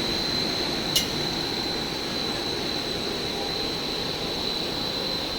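PVC fibre-reinforced hose production line running: a steady machine noise with a constant high-pitched whine and a single sharp click about a second in.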